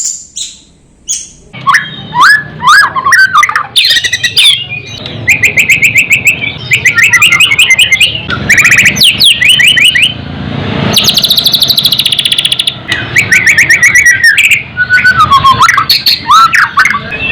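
Songbird singing a loud, varied song from about a second and a half in: fast repeated trills, whistled glides and harsh chattering notes in quick succession, with very rapid high rattling trills near the middle and end.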